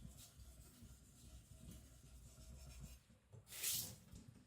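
Light strokes of a Niolox-steel nakiri blade sliding on a whetstone under just the knife's own weight, polishing the edge. It is a soft, faint rubbing, with one louder hissing scrape about three and a half seconds in.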